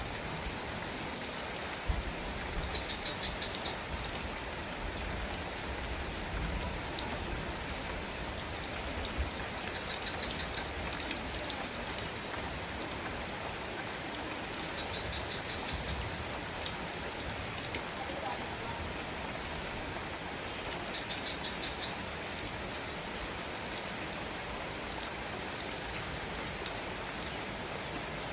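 Steady rain falling, with scattered sharper drip impacts. A short, high, pulsing chirp recurs every five to six seconds.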